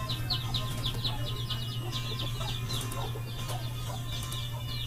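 A bird chirping in quick, short, high falling notes, about five a second, over a steady low hum.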